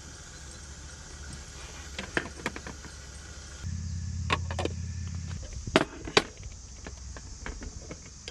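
Camp cooking gear being handled: several sharp clicks and clinks, the loudest two close together a little past the middle, over a steady low hum.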